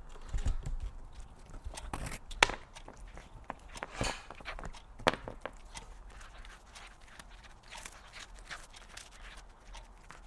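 A cat eating close to the microphone: irregular crunchy clicks and smacks of chewing, with a few sharper, louder crunches in the first half.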